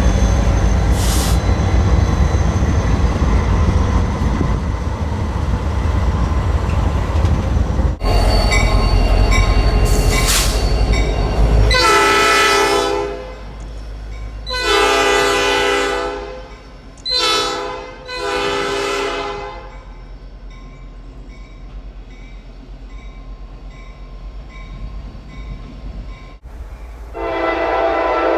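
Heavy train rumble, then a locomotive's multi-chime air horn sounding long, long, short, long: the grade-crossing signal. After a quieter stretch, a cut brings in another sustained horn blast near the end.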